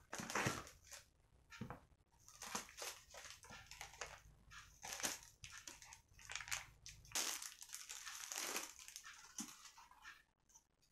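A close run of short, irregular crunches and crinkles from crispy KFC fried chicken and its paper packaging being handled and eaten.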